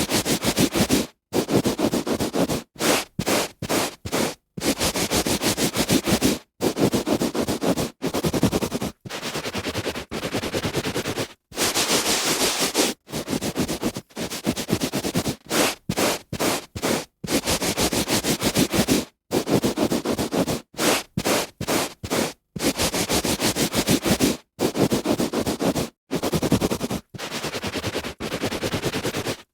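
A hand rubbing back and forth on a carpet, a rasping scrape in strokes from a fraction of a second to about two seconds long, each broken off by a brief silent gap.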